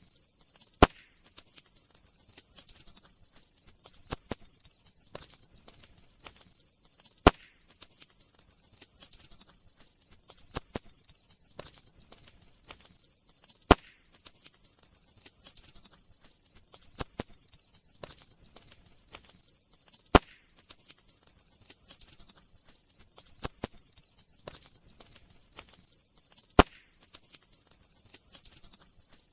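Crackling campfire: a steady scatter of small crackles and snaps over a faint hiss, with a loud pop about every six and a half seconds, five in all.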